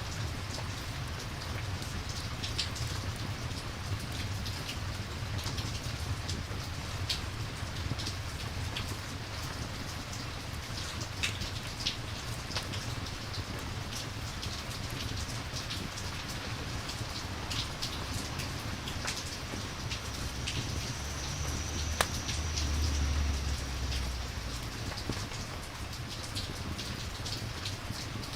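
Steady rain ambience with a campfire crackling: scattered sharp pops over an even patter, with a low rumble underneath that swells briefly about 22 seconds in.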